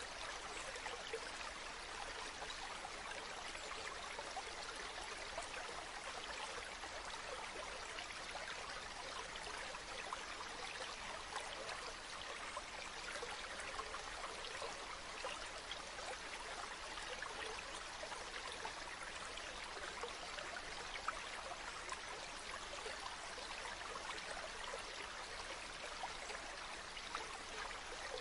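River water flowing: a steady, even rush of running water with fine trickling and splashing.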